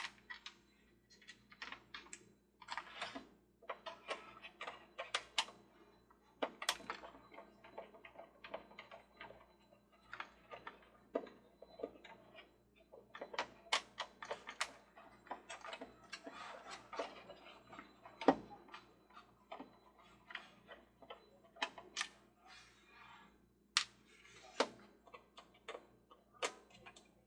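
Small screws being backed out of the plastic housing and arms of a Mr. Christmas Ferris wheel: many irregular light clicks and ticks of the screwdriver and screws, with one sharper knock about eighteen seconds in.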